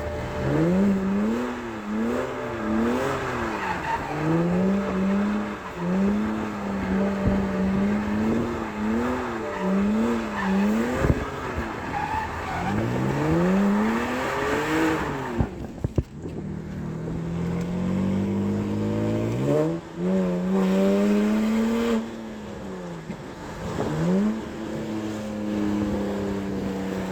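Straight-piped straight-six engine of a BMW E92 328i revving up and down while drifting, its revs climbing and falling about once a second with stretches held steady. About halfway through the revs drop suddenly, then climb again.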